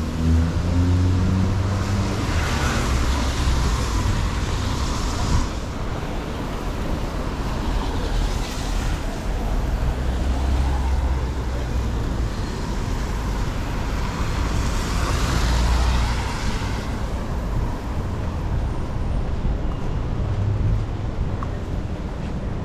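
City street traffic: a steady rumble of vehicles, with tyre hiss swelling as cars pass three times.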